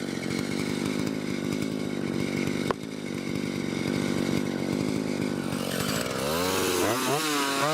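1959 Stihl Contra single-cylinder two-stroke chainsaw running at steady high revs while cutting into a pine trunk, with one sharp click about two and a half seconds in. Near the end its pitch swings up and down as the revs change.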